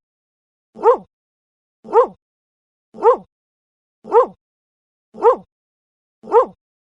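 A dog barking once about every second, the same short bark repeated at an even pace six times, like a looped sound effect.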